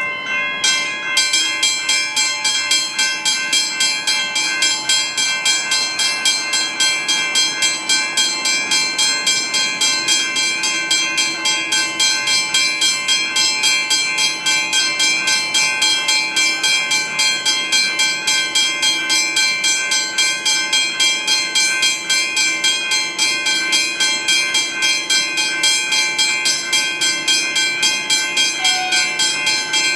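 Westinghouse first-generation hybrid level-crossing bell ringing continuously, struck in a fast, even rhythm of about three to four strokes a second, each stroke ringing on. It starts suddenly.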